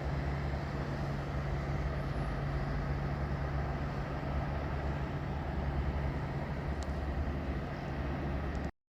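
A train running by on the line: steady running noise with a low hum, which cuts off suddenly near the end.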